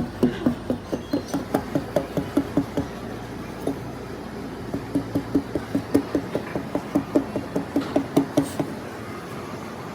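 Rapid, even hammer blows, about four or five a second and dull in tone. They pause briefly partway through and again near the end.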